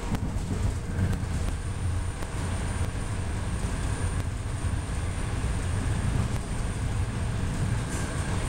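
PATCO rapid-transit train running along the track, heard from inside the car: a steady low rumble of wheels on rail with a faint steady whine and a few clicks.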